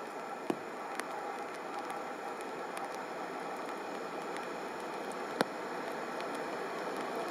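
Distant freight train behind a Newag Dragon (E6ACT) electric locomotive approaching: a steady rushing noise that slowly grows louder, with scattered raindrop ticks and two sharper taps over it.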